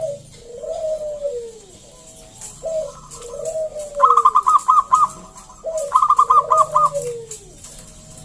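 Zebra dove (perkutut) cooing in repeated rolling, falling phrases, about one every second or two. Twice in the middle a quick run of about five higher notes sounds over it.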